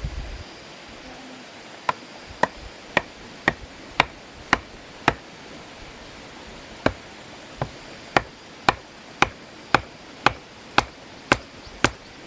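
Wood being chopped with a blade: sharp single strikes at a steady pace of about two a second. They come in a run of seven starting about two seconds in, then, after a short pause, another long run.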